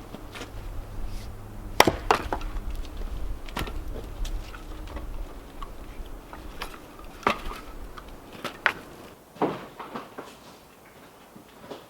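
Irregular sharp wooden knocks and clatters, the loudest about two seconds in, from timber being handled or struck during framing work, over a low rumble that stops about eight seconds in.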